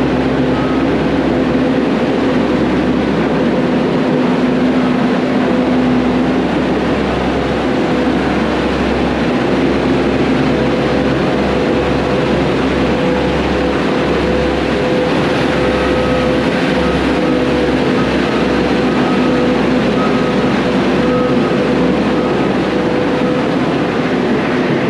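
Diesel compaction roller running steadily as it rolls a freshly watered crushed-rock floor. A faint repeated beep comes through near the start and again through the second half.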